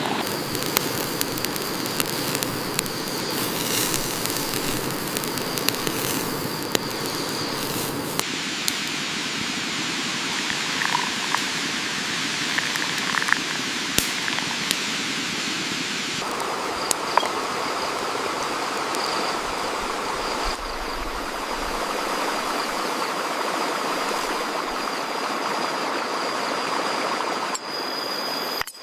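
Steady rain-like hiss, a broad even wash of noise with scattered small clicks. Its tone changes abruptly several times, about 8, 16, 20 and 27 seconds in.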